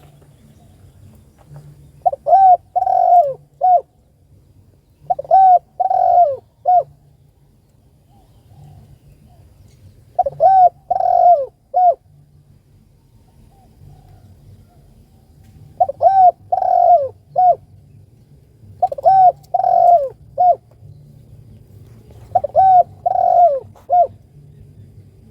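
Spotted dove (tekukur) calling: six cooing phrases, each a short run of a few notes, with pauses of a few seconds between them.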